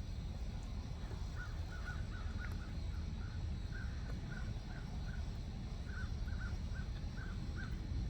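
A bird calling in a quick series of short notes, in several small bursts starting about a second and a half in, over a steady low rumble.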